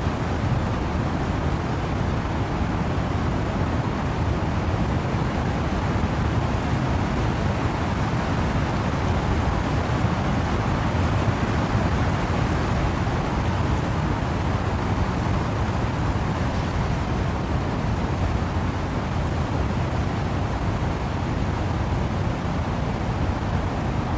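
Wind and rain in trees as a steady, deep rushing noise, heaviest in the low end, with no single drops, gusts or other events standing out.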